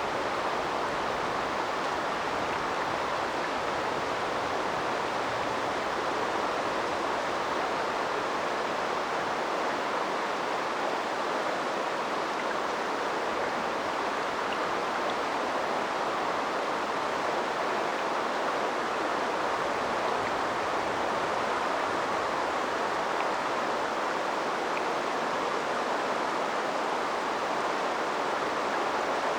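River water flowing over its bed: a steady, even rushing sound that does not change.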